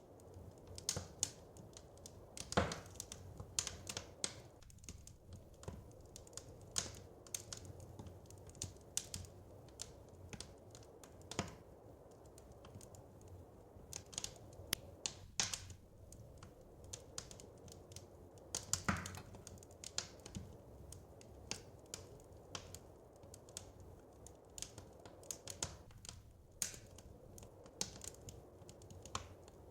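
Wood fire crackling in a fireplace: irregular snaps and pops, a few of them louder, over a soft steady hiss.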